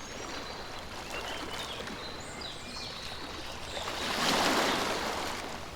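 Water running and splashing, swelling louder about four seconds in.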